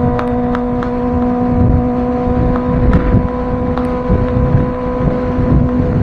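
Kawasaki ZX25R's 249 cc inline-four running through a Villain R11 aftermarket exhaust, held at a steady high engine speed with an even pitch. Wind rumbles on the microphone underneath, with a few faint clicks.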